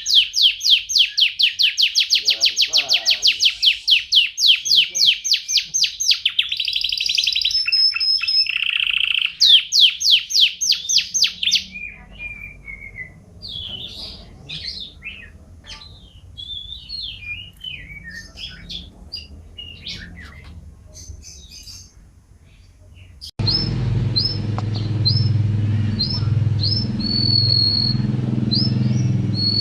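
Domestic canary singing: long, rapid rolling trills, each a fast string of high notes, for the first twelve seconds or so, then softer, varied twittering. About 23 seconds in, the sound cuts abruptly to evenly repeated short high chirps over a low steady hum.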